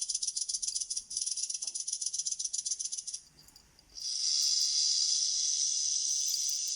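Snake sound effect: a rattlesnake's fast, buzzing tail rattle that stops about 3 s in, followed about a second later by a steady high-pitched hiss.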